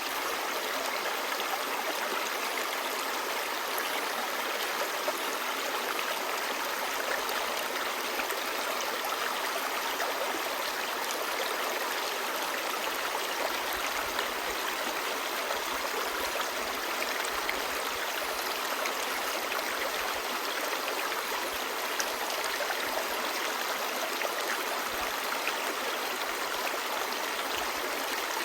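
Clear stream babbling: a steady rush of flowing water with small splashes throughout.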